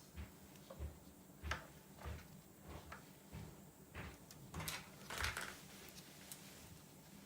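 Scattered light clicks and knocks of small parts and tools being handled during the disassembly of an electric drill, irregular, with the loudest knocks about a second and a half in and around five seconds in.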